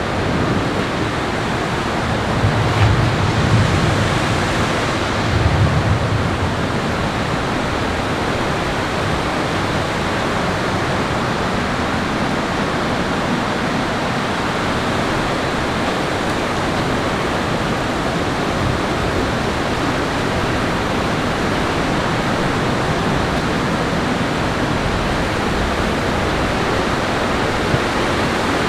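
Heavy rain falling steadily, an even rushing hiss, with two brief low rumbles a few seconds in.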